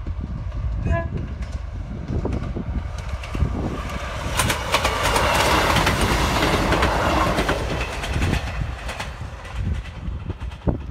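Class 158 diesel multiple unit gives a short horn blast about a second in while still distant, then passes close by at speed, its wheels clicking over the rail joints as the noise swells to a peak and then fades as it moves away.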